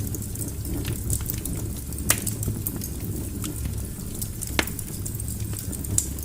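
Wood fire burning in a fireplace: a steady low rumble of flames under scattered small crackles, with two louder sharp pops about two seconds and four and a half seconds in.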